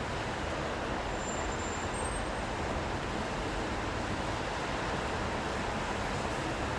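Steady city street traffic noise: an even wash of vehicle and road sound with no single vehicle standing out.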